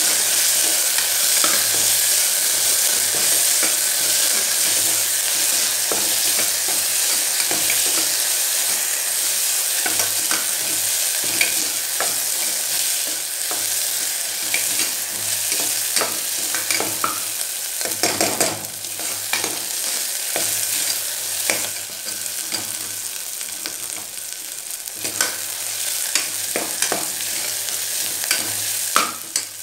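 Crushed shallots, ginger and garlic sizzling in hot oil in a pressure cooker pan, with a steady hiss. A metal ladle scrapes and clicks against the pan again and again as the mixture is stirred so it does not stick while the raw smell cooks off.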